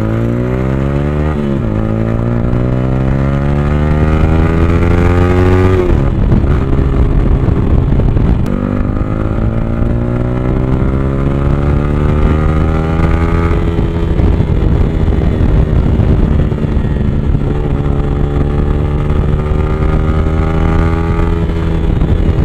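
Motorcycle engine accelerating through the gears. The pitch rises, drops at gear changes about a second and a half in, around six seconds and around eight and a half seconds, then settles into a steady cruise.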